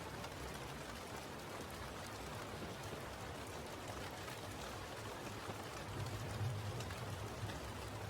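Steady rain falling, with fine drop patter and a brief low rumble about six seconds in.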